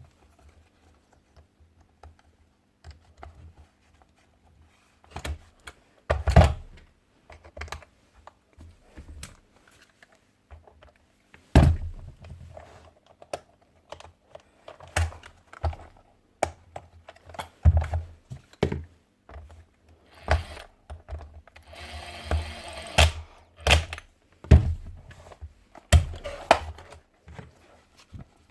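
Irregular clicks, knocks and thunks of hard parts of a Paslode IM65A nail gun being handled and fitted together on a workbench, with a few sharper knocks and a short rattle near the end.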